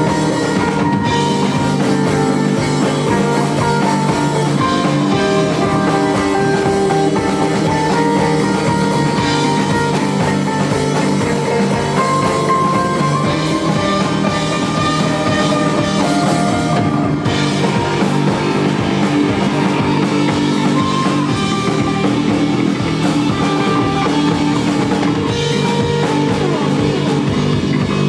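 A rock band playing live, loud and steady: electric guitars and bass over a drum kit, in a psychedelic rock style.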